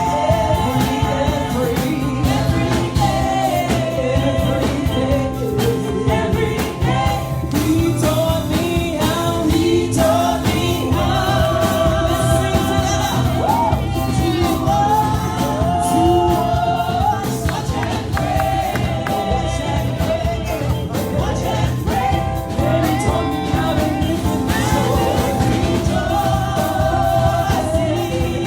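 Gospel song: voices singing over live band accompaniment with a steady low bass line.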